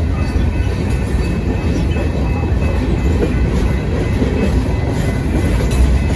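A train passing close by: a steady, loud rumble of wheels on the rails.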